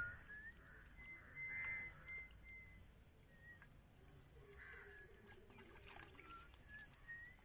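Faint birdsong: several brief clear whistled notes, with soft water splashing from chicken pieces being rinsed under it.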